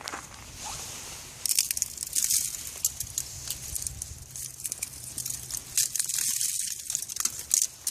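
Ice crunching and crackling: a run of sharp crackles and scraping crunches starting about a second and a half in.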